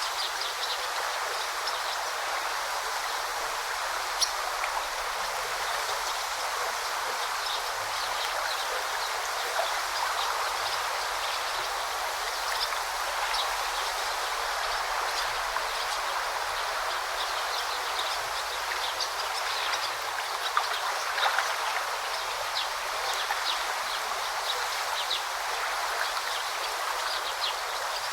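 Forest stream babbling steadily, with short high bird chirps scattered through it.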